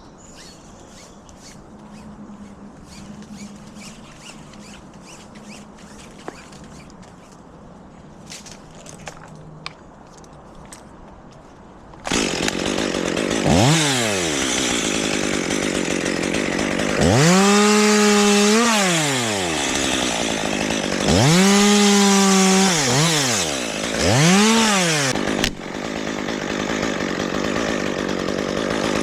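Chainsaw starting up about twelve seconds in after a quiet stretch with light clicks, then revved four times, its pitch rising and falling with each throttle, before running steadily.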